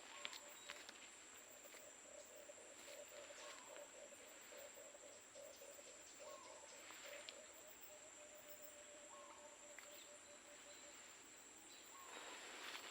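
Faint countryside wildlife: a low, rapidly pulsing animal call that goes on for about ten seconds and fades out near the end, over a steady high-pitched insect drone, with a few soft short chirps about every three seconds.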